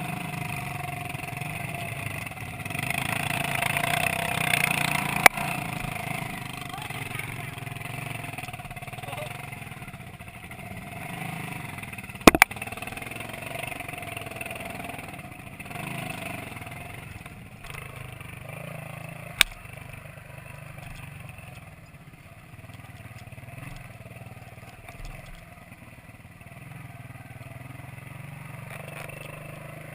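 Minsk 125 two-stroke single-cylinder motorcycle engine running under way, with a louder stretch a few seconds in. Three sharp knocks at roughly seven-second intervals.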